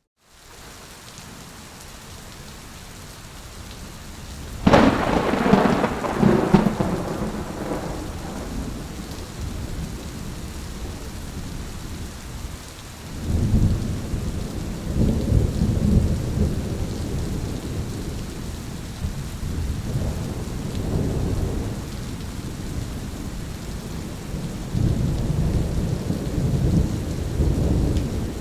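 Thunderstorm with steady rain: a sudden loud thunderclap about five seconds in rumbles away over a few seconds, followed by several long, low rolls of thunder.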